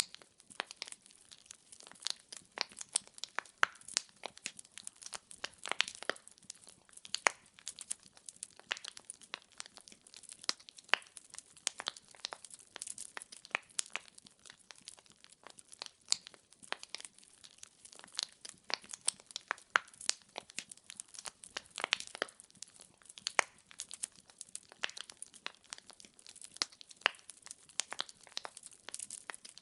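Wood fire crackling steadily: dense, irregular sharp pops and snaps of burning logs over a soft hiss of flame.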